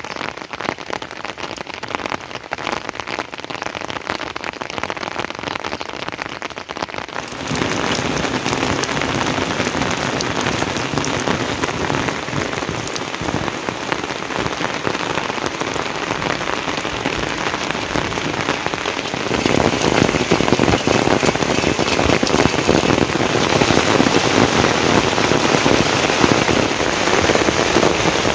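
Steady rain falling, a dense hiss of many drops striking surfaces. It gets abruptly louder twice, about a quarter of the way in and again about two-thirds of the way in.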